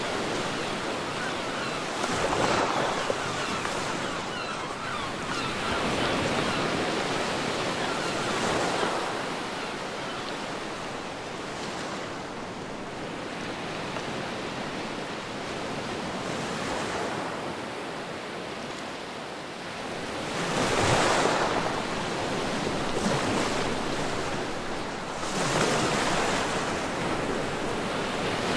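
Ocean waves breaking and washing up a beach, rising in surges every few seconds with a calmer stretch midway, over a steady wash of surf and wind.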